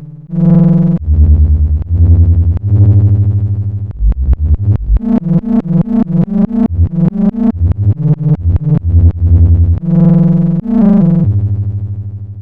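Arturia MiniBrute 2 analog monophonic synthesizer playing a bass line: a few long held low notes, then a run of fast short notes at about five or six a second near the middle, then long notes again.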